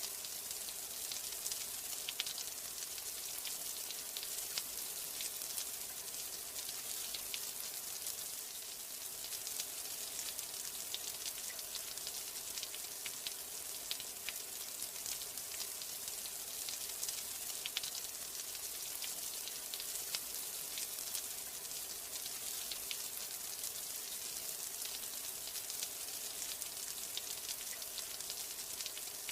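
Steady rain with a dense, even patter of individual drops ticking against a surface.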